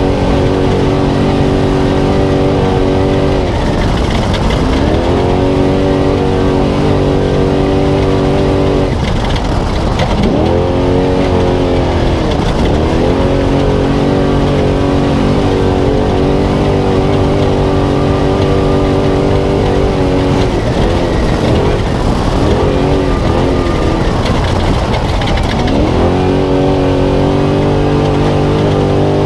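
Spec Trophy Truck engine running at high revs onboard, with the revs dropping and climbing back as the driver lifts and gets back on the throttle, about four seconds in, around ten and twelve seconds, and through an unsteady stretch in the second half. Heavy road and wind noise runs underneath.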